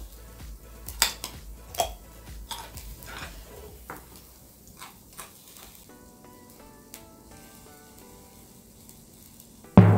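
Beef slices sizzling on a small tabletop charcoal grill, with sharp clicks of chopsticks against the grill grate over the first five seconds as the meat is turned. Soft background music comes in about six seconds in, and a loud low drum hit lands just before the end.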